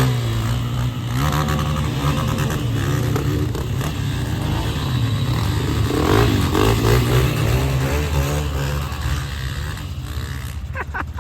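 Dirt bike engine running and being revved up and down several times, its pitch rising and falling.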